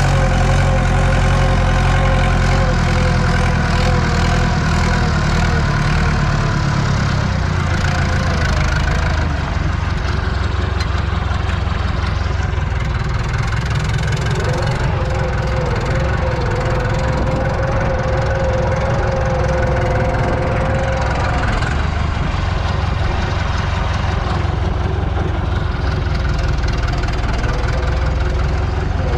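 Older tractor's diesel engine running steadily while cultivating, heard from the cab, with a steady whine over the engine note that wavers about halfway through.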